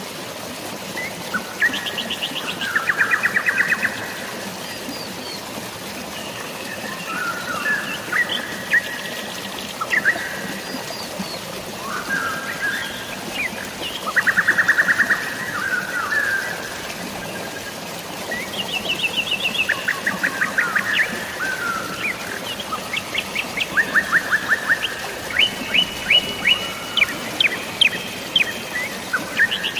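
Birds singing: repeated rapid trills and short whistled phrases, one after another, over a steady hiss of drizzling rain and flowing water.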